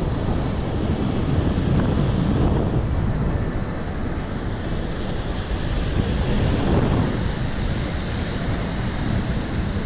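Rough sea surf washing on the shore, with strong wind buffeting the microphone and a steady low rumble.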